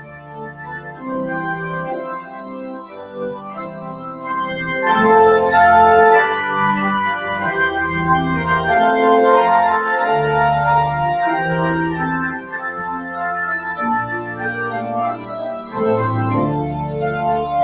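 Organ playing the postlude at the close of the service: sustained full chords moving every second or so over a deep pedal bass, growing louder about five seconds in.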